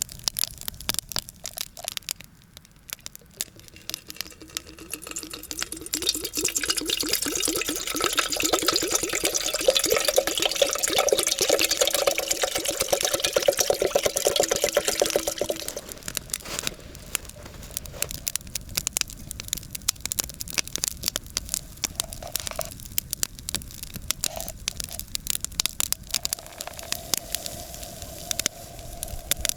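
Wood campfire crackling with constant sharp pops and snaps. For about ten seconds in the middle a loud hiss swells under the crackle, carrying a steady whistle-like tone, then it drops back to crackling alone.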